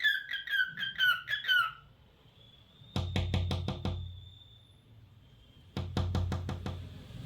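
Cockatiel chirping a quick run of short, high, bending calls for the first two seconds. Then come two rapid runs of sharp, drum-like beats, about three and six seconds in.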